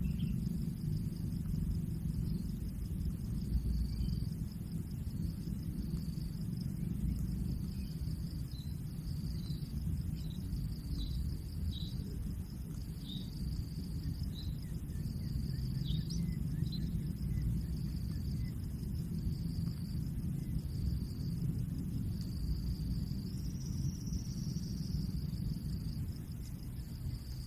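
Outdoor ambience: insects keep up a steady high, pulsing trill over a low rumble, with a few short faint chirps in the middle stretch.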